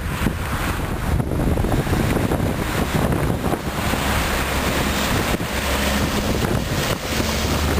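Heavy wind buffeting the microphone, a dense rushing noise over a steady low engine rumble.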